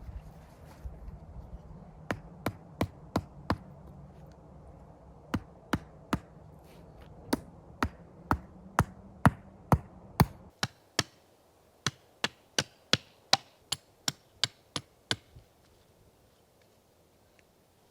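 A tool striking repeatedly: sharp single knocks, about two to three a second, unevenly spaced. A low hum lies under the first ten seconds and cuts off abruptly, and the knocks carry on more quietly for a few seconds after.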